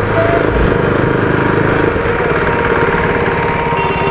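Motorcycle engine idling steadily, with an even, unchanging pulse.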